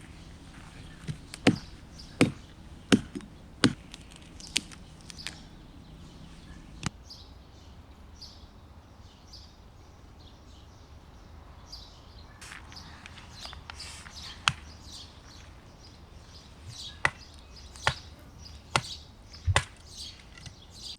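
Wood campfire crackling, with irregular sharp pops and snaps. The pops bunch together in the first few seconds and again near the end.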